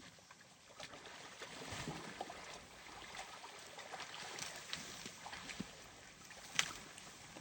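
Elephant sloshing and splashing in a muddy water wallow: irregular small splashes and gurgles, with one sharper slap near the end.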